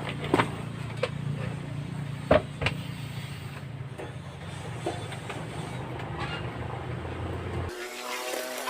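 Scattered clicks and knocks as a standard electric fan is handled and taken apart to reach its fuse, over a steady low hum; the loudest knock comes a little over two seconds in. Near the end the hum cuts off suddenly.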